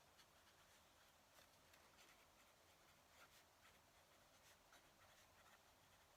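Fountain pen nib scratching faintly on paper in short, irregular strokes of handwriting.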